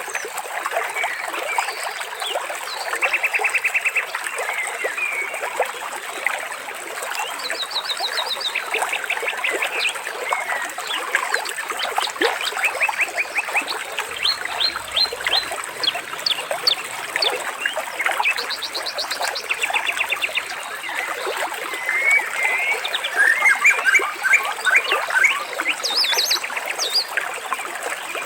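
Water trickling with many birds calling over it: short chirps and fast rattling trills that overlap, busiest near the end.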